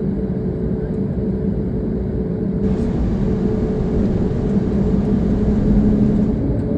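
Airbus A321XLR's jet engines heard from inside the cabin: a steady hum over a low rumble, with a hiss joining about two and a half seconds in.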